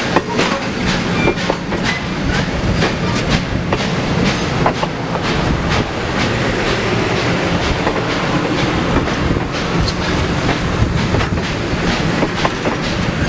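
Train cars rolling along the track, their wheels clicking over the rail joints in a frequent, irregular clatter over a steady low rumble.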